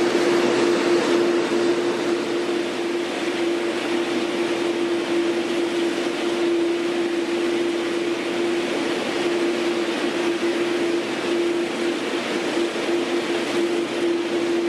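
Jet airliner engines running steadily: an even rushing noise with one constant droning tone.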